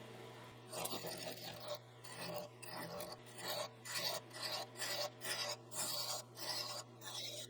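Rasping abrasive strokes on a wooden ornament blank, about two a second, starting about a second in, over a steady low hum.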